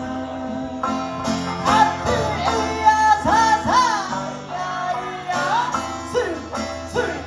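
Okinawan folk song with sanshin: the three-stringed sanshin plucking a melody while a voice holds and bends long notes between the sung lines.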